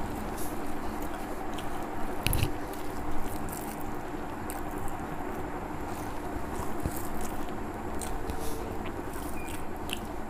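Close-up eating sounds: chewing and small wet mouth clicks while rice and poached egg are mixed and eaten by hand from a plate, with scattered short ticks. A steady low hum runs underneath.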